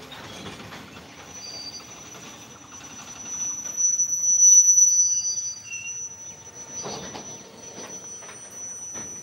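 Goods train's covered wagons rolling past, their wheels squealing on the rails in one steady high-pitched squeal that swells to its loudest about four to five seconds in, with a few brief extra squeaks and the clack of wheels over rail joints near the end.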